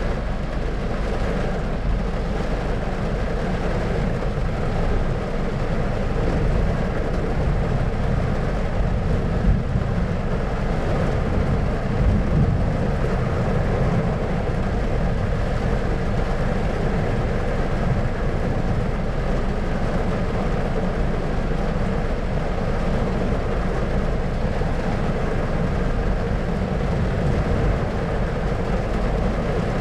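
Thunderstorm white-noise ambience: a steady low rumbling noise that holds an even level, with no separate thunder claps standing out.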